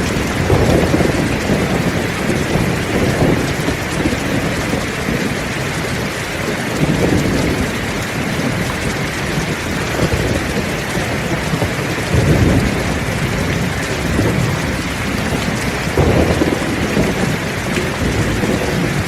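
Heavy rain falling steadily, with rolls of thunder rumbling low several times, the strongest about twelve seconds in.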